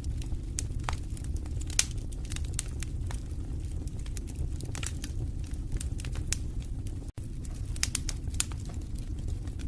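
Wood fire burning in a fireplace, crackling with irregular sharp pops and snaps over a steady low rumble of flames. The sound cuts out for an instant about seven seconds in.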